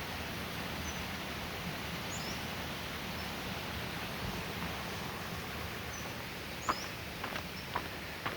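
Steady rush of a flowing creek, with small birds chirping now and then high above it and a few short clicks near the end.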